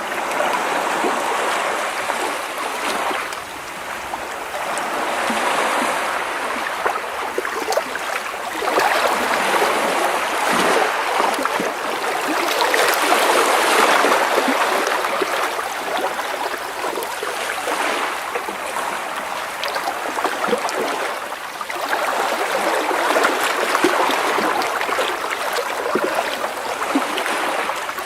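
Small sea waves washing and splashing against rocks close by, a continuous sloshing wash that swells and eases every few seconds, with fine crackling trickles as water drains between the stones.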